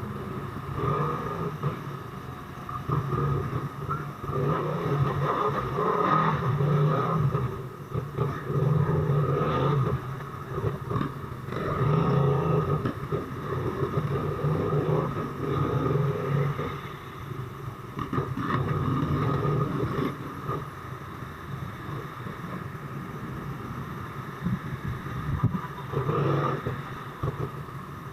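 Motorcycle engine running while riding, swelling louder and easing off every few seconds as the bike speeds up and slows in traffic.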